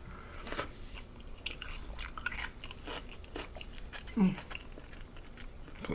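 A person chewing and biting food close to the microphone: scattered crisp, crunchy clicks of mouth noise. There is a short voiced sound about four seconds in.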